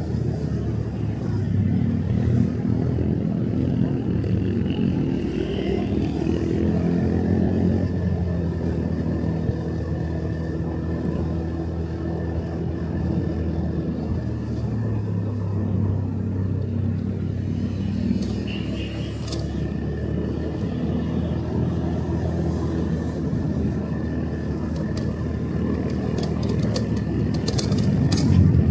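Motorcycle engine running on the road, its note rising and falling with the throttle, over road noise. A run of sharp clicks comes near the end.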